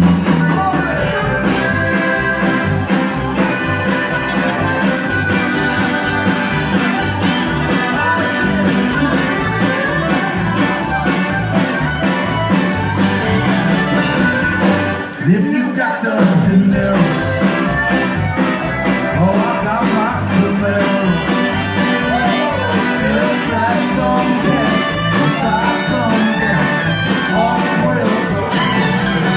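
Live Tex-Mex band playing, with guitar, bass and drums under a singing voice. The music thins out briefly about halfway through, then the full band comes back in.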